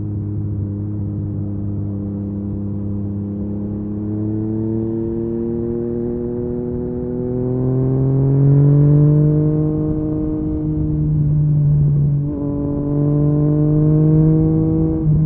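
Yamaha MT-09's three-cylinder engine through an Akrapovic carbon exhaust, holding a steady note, then pulling up in revs over several seconds as the bike accelerates. About twelve seconds in the note dips briefly and picks up again, with another short dip near the end.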